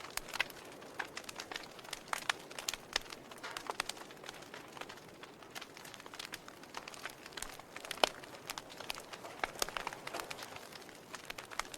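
Wood fire crackling in a fireplace: irregular sharp pops and snaps over a faint steady hiss, with one louder pop about eight seconds in.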